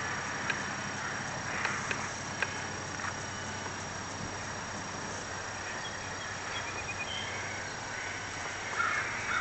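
Distant whine of an electric RC plane's motor and 9x9 propeller in flight, changing pitch as it flies around and dropping in pitch near the end.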